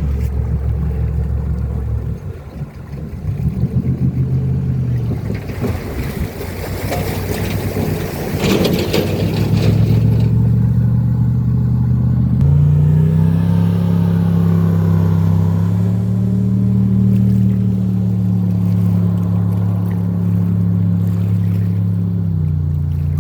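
A motor engine running close by, with a rush of noise in the middle; about twelve seconds in it settles into a louder, steady drone with slight rises and falls in pitch.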